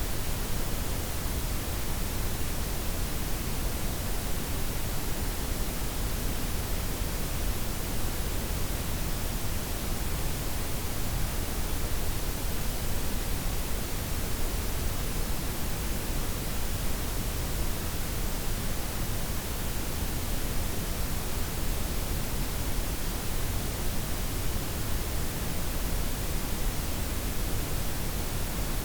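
Synthetic blend of white, pink and brown noise, a steady, even hiss with a strong deep rumble underneath and no change throughout.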